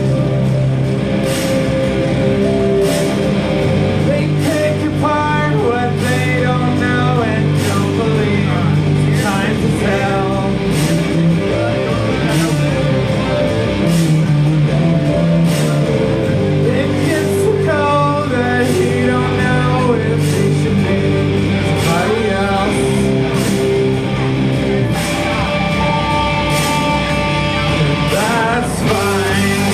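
Live band playing loud rock music: a singing voice over guitar and sustained bass notes, with a steady drum beat throughout.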